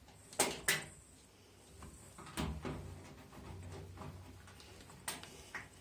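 A few sharp clicks and knocks on the washing machine's casing as a small bolt is screwed into the side panel by hand: two close together about half a second in, another a couple of seconds later, and more near the end.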